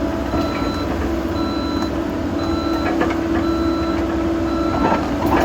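Cat 308 excavator's travel alarm beeping about once a second as the machine tracks, over its diesel engine running with a steady hum.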